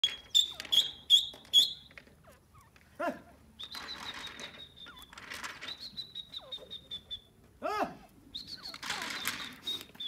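Birds calling: a quick run of four sharp, high chirps, then high, rapidly pulsed trills, with two lower rising-and-falling calls about three and eight seconds in.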